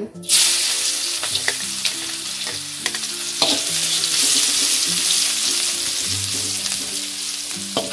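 Sliced shallots dropped into hot oil in a wok, starting a loud sizzle just after the start that goes on steadily as they fry. A perforated metal spatula stirs them, with a few sharp scrapes against the wok.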